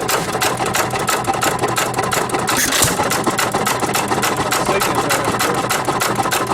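Fuller and Johnson hit-and-miss gasoline engine running after its cold start, with a quick, even clicking rhythm. A short hiss cuts in briefly near the middle.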